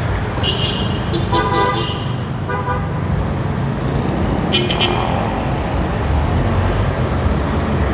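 Jeepney engine and road rumble heard from inside the vehicle, with several short vehicle-horn toots in traffic during the first five seconds.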